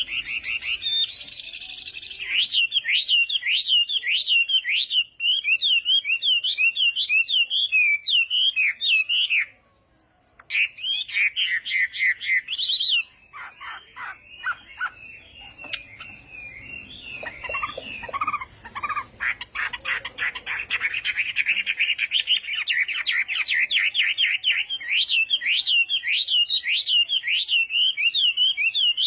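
Chinese hwamei singing: long runs of quick, repeated whistled notes, breaking off briefly about ten seconds in, then some harsher, lower notes before it returns to fast trilling.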